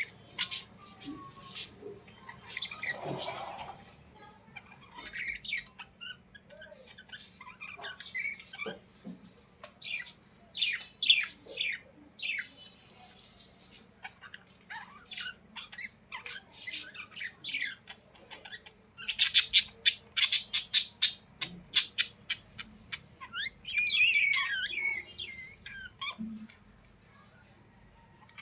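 Birds squawking and chirping in short, falling calls. About two thirds of the way in comes a fast run of about a dozen sharp calls, then a longer warbling call.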